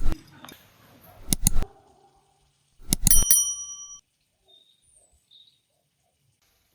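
Metal cookware knocking: sharp knocks near the start and about a second and a half in, then a metallic strike about three seconds in that rings clearly for nearly a second before cutting off. The rest is near silence.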